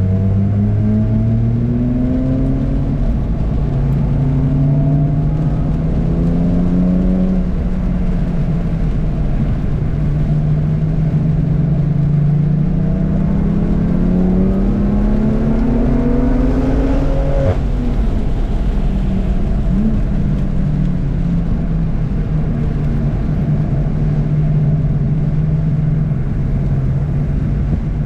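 Car engine pulling hard through the gears at track speed. Its pitch climbs and drops back several times, with one long climb about two-thirds through that ends abruptly, then it holds a lower, steady note near the end, over a steady rushing noise.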